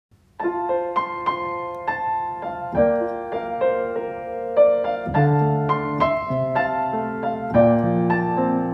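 Slow, gentle solo piano music starting about half a second in, with deeper bass notes coming in about five seconds in.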